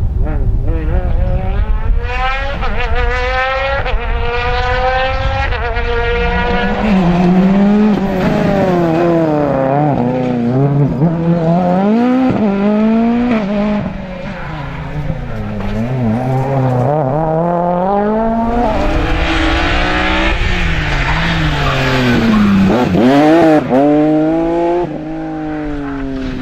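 Rally cars at full attack, engines revving hard: the pitch climbs again and again through gear changes and drops as they brake. About twenty seconds in, a stretch of hissing noise rides over the engine.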